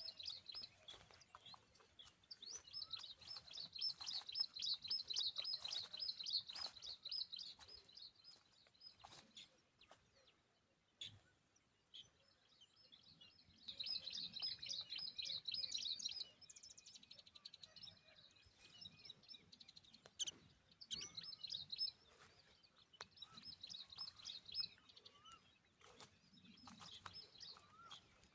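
Tailorbird nestlings begging for food: three bouts of rapid, high-pitched cheeping, the longest about six seconds, with quieter gaps between.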